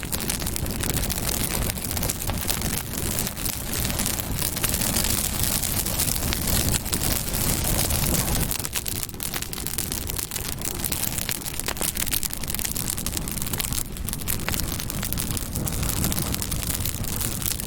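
Campfire burning: a steady hiss and low rumble of flames, with frequent sharp crackles and pops from the burning wood.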